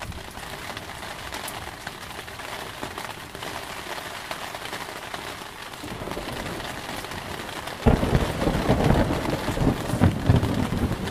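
Steady heavy rain, then a sudden loud crack and rumble of thunder about eight seconds in that goes on rolling to the end.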